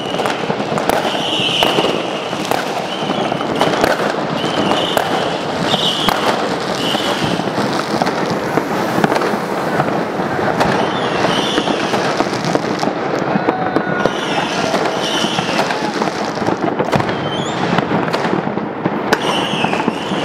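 Fireworks and firecrackers going off all around without pause: many sharp bangs in quick succession over a dense crackling din.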